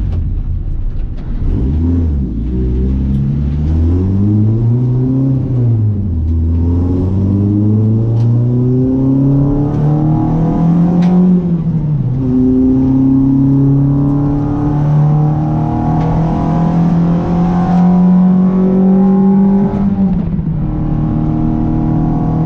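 Renault Clio RS 182's 2.0-litre four-cylinder engine pulling hard on track, its revs rising in repeated climbs. The pitch falls and picks up again about halfway through at a gear change, then holds high before dropping near the end.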